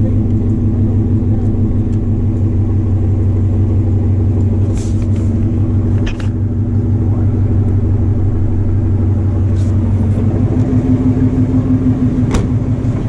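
2018 Ford Mustang's 5.0 Coyote V8 idling steadily on the dyno, with a few light clicks scattered through.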